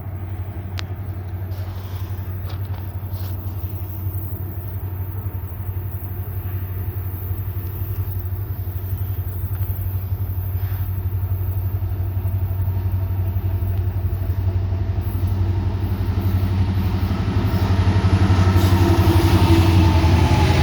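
Diesel locomotive engines of an approaching train, a steady low drone that grows steadily louder, with higher-pitched tones and rail noise joining in near the end.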